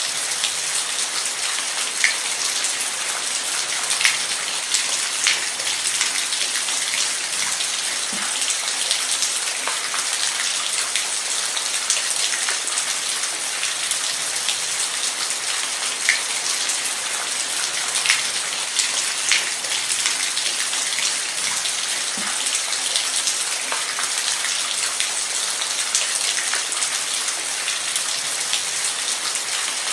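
Steady rain falling, a continuous high hiss with scattered louder individual drops.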